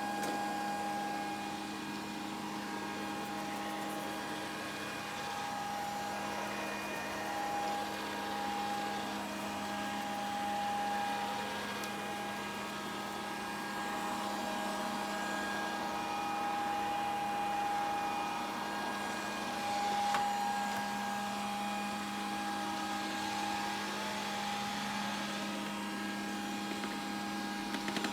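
Grundig VCR 2131 robot vacuum cleaner running steadily: an even motor hum with a higher whine on top.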